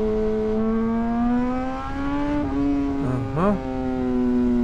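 Yamaha R1 sportbike's inline-four engine running at steady cruising revs. The pitch rises gently over the first two seconds, dips slightly about halfway through, then holds steady.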